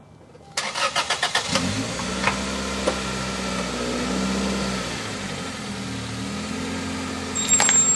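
Car engine started: the starter cranks it in rapid even beats for about a second, then the engine catches and runs steadily. A few sharp clicks come near the end.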